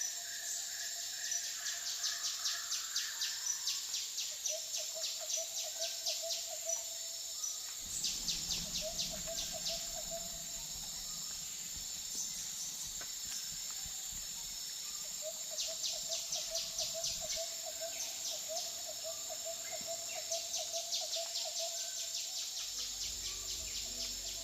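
Outdoor nature ambience: insects chirring steadily high up, in fast pulsed trains that come and go, while a low trilling call repeats in runs of a few seconds.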